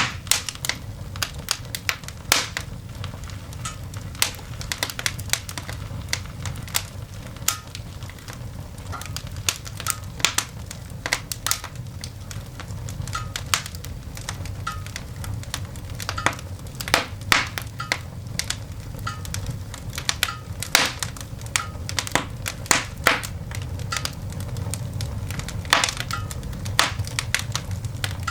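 Coal fire burning in a cast iron dog grate, snapping, crackling and popping in sharp, irregular bursts over a steady low rumble.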